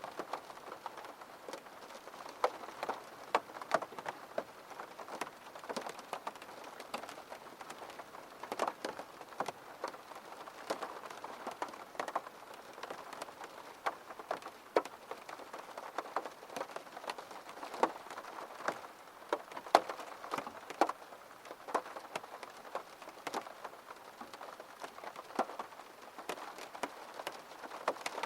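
Steady rain: a soft, even hiss with many distinct drops ticking sharply on a hard surface at irregular moments.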